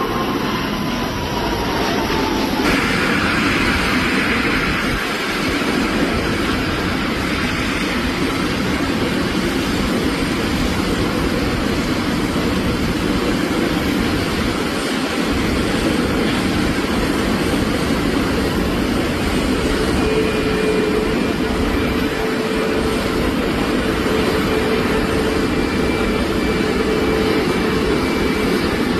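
Steady aircraft engine noise. A falling whine fades in the first two seconds, and the sound abruptly changes character about three seconds in.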